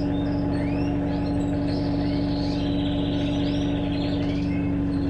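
Electrolux LTE12 top-load washing machine draining with a steady hum, going round again into an extra rinse and spin. Birds chirp throughout.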